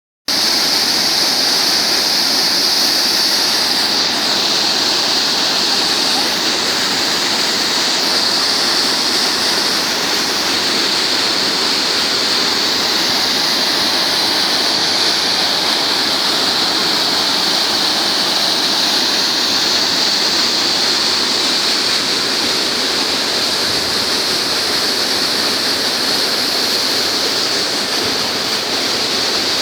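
Steady, loud rush of flowing river water, an unbroken hiss with no pauses.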